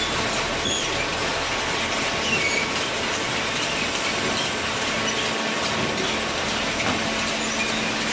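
Automatic horizontal cardboard baler running with a steady mechanical noise and a low hum, plus scattered short high squeaks.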